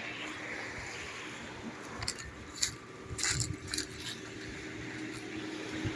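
Footsteps over stones and shoreline debris, with a handful of sharp clinks and knocks between about two and four seconds in, over a faint steady low hum.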